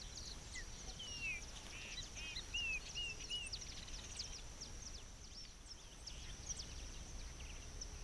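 Outdoor ambience of birds chirping: a run of short whistled notes a second or so in, with scattered brief high chirps, over a steady high-pitched tone and a low rumble.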